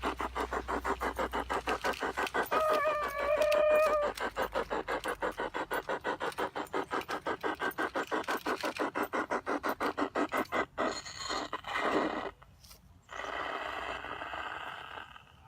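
Garden-scale model train running on its track: its wheels click in a fast, even rhythm, about seven clicks a second, until they stop about eleven seconds in. A steady pitched tone, like a horn or whistle, sounds for about a second and a half near the start.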